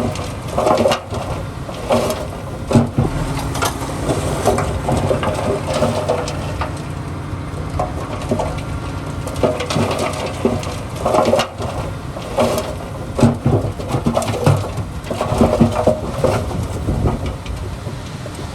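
Komatsu D31P crawler bulldozer working: a steady diesel engine note under frequent irregular clanks and crunches from its steel tracks and the soil and stones it pushes.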